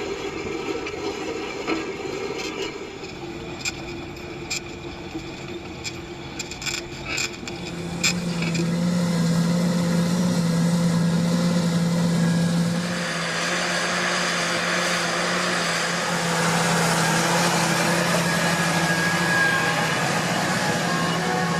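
John Deere 8360R tractor's diesel engine running steadily under load while pulling a plough. There are scattered clicks for the first several seconds; about eight seconds in, a strong low engine note comes in and the sound grows louder.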